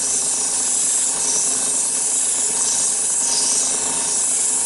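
Wood lathe running at high speed while a strip of sandpaper is held lightly against the spinning wooden egg cup. A steady rubbing hiss rides over the lathe's motor hum as the freshly applied linseed oil is sanded into the wood.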